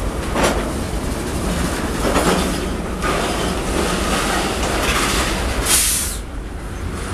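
Freight train of tank wagons rolling past at close range: a steady rumble and clatter of steel wheels on rail, with a few louder clanks. A brief bright hiss comes near the end, after which the sound drops a little quieter.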